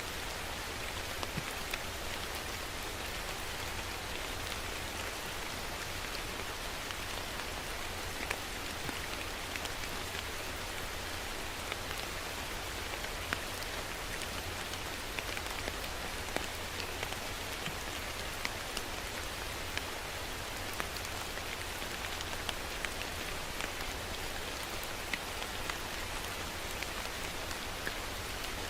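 Steady rain falling, an even hiss with frequent sharp ticks of individual drops hitting a surface.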